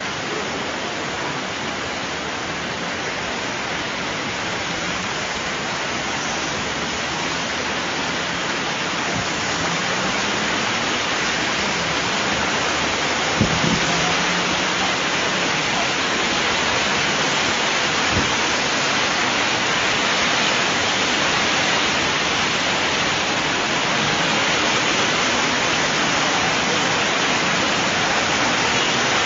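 Steady rush of heavy rain and floodwater, slowly growing louder, with a sharp knock about halfway through and a softer one a few seconds later.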